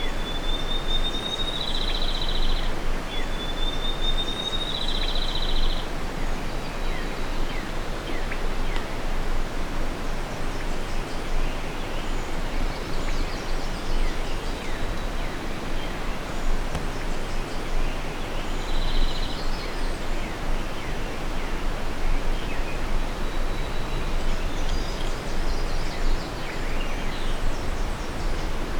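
A steady rustling hiss of outdoor noise. A small songbird sings over it: a thin high whistle that ends in a short buzz, twice in the first six seconds and once more about nineteen seconds in.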